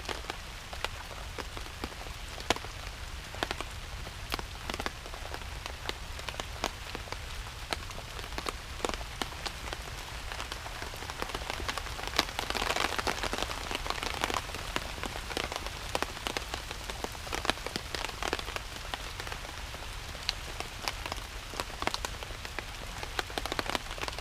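Rain falling steadily, with many separate drops striking close by. It gets a little heavier for a few seconds about halfway through.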